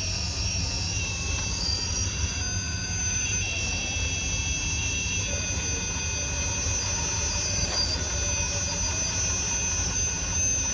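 Radio-controlled rock crawler's electric motor and gear train whining at a high pitch as the truck creeps along a course line, the pitch stepping up and down a little as the throttle changes.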